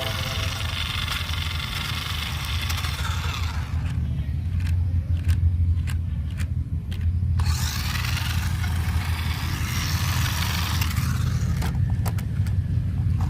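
Small motor of a radio-controlled model running steadily with a low hum; the higher hiss drops away for a few seconds in the middle, with a few clicks, then comes back.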